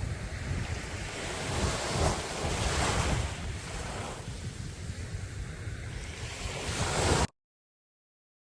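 Sea waves surging and washing onto a beach, with wind buffeting the microphone. The surf swells about two and three seconds in and again near the end, then the sound cuts off abruptly into silence for over a second.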